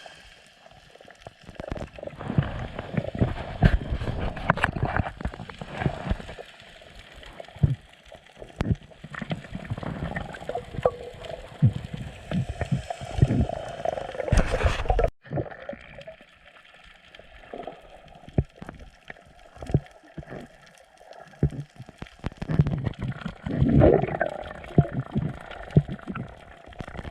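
Water gurgling and sloshing over a camera's microphone in the sea, in irregular surges, with a sudden brief drop about halfway through.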